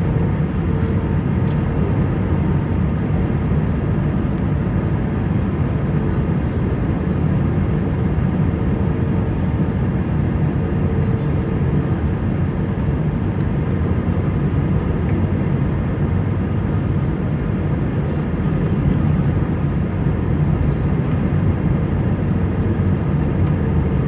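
Airbus A320 cabin noise: a steady low rumble of the jet engines and airflow with a faint hum, heard from inside the cabin.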